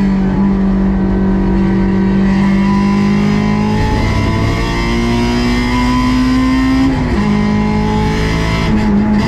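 Honda S2000 AP2's stock 2.2-litre four-cylinder engine running hard at high revs on track, its pitch holding or climbing slowly, with brief dips in the revs about four and seven seconds in and again near the end.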